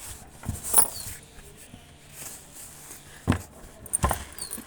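Pet parrot giving two brief, high, falling chirps among four sharp taps and knocks.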